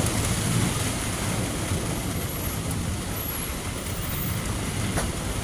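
Heavy thunderstorm rain and wind, a steady rushing noise with a strong low rumble.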